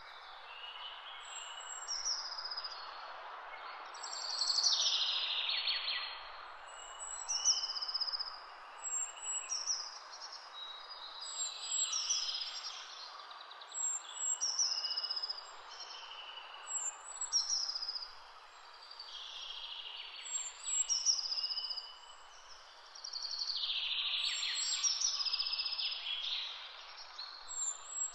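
Birds singing, short high chirping phrases repeated over and over, over a steady rushing background noise.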